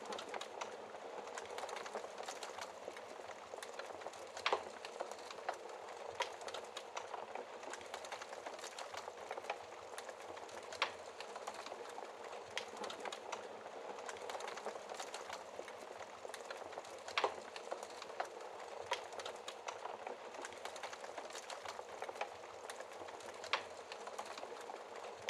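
Wood fire crackling in a fireplace: a steady hiss of small crackles, with sharper, louder pops every few seconds.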